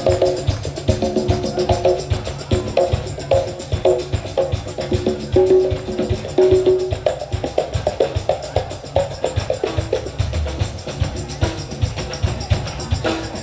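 Live band playing an instrumental passage with busy percussion over a fast, even beat and sustained pitched notes, without singing.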